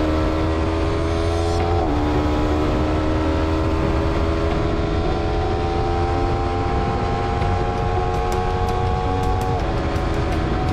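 Honda CBR250RR parallel-twin engine through an Akrapovic slip-on exhaust, pulling under acceleration: the pitch climbs slowly, drops sharply at an upshift about two seconds in and again near the end, then climbs again.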